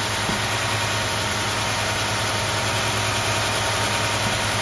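Mercedes-Benz KE-Jetronic fuel-injected engine idling steadily with an even hum.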